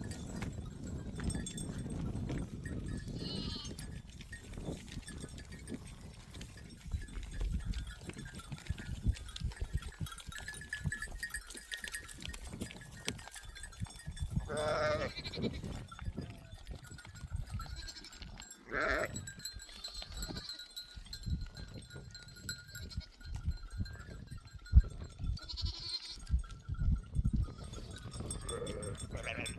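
A herd of sheep and goats bleating now and then, several separate calls with the clearest about halfway through and again near the end, over a steady low rumble.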